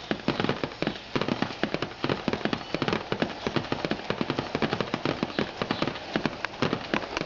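Rain falling on a hard surface close to the microphone: a dense, irregular run of sharp drop impacts, many a second.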